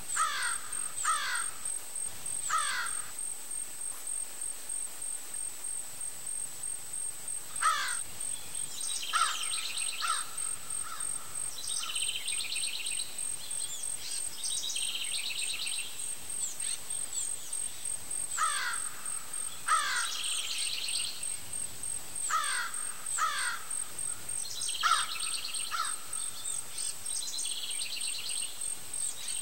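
Birds calling: repeated down-slurred whistles and buzzy trilled phrases, in bursts with a short lull a few seconds in. A steady high-pitched whine runs underneath.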